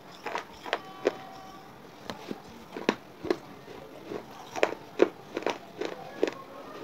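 A person biting and chewing clay chips: irregular crisp crunches, several a second.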